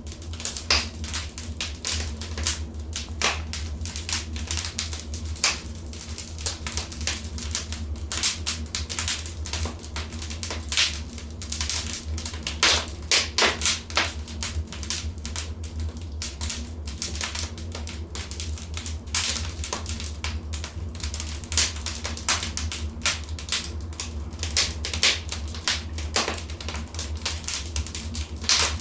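Wood fire crackling: irregular sharp pops and snaps over a steady low background, with a cluster of louder snaps about halfway through.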